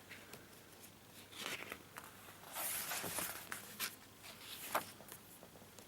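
Soft rustling of a picture book being handled and its pages turned: a few short dry swishes, the longest about two and a half seconds in.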